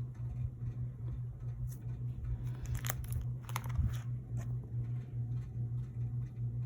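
Crinkly handling noise, a short cluster of crackles a few seconds in, typical of plastic card sleeves or binder pages being handled, over a steady low hum.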